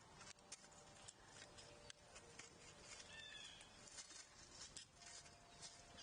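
Faint outdoor ambience of a backyard feeding area: scattered light ticks and taps, and a short bird call about three seconds in.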